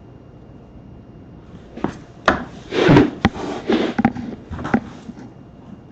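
A short flurry of sharp knocks and clicks mixed with scraping, rubbing sounds, starting about two seconds in and dying away about three seconds later.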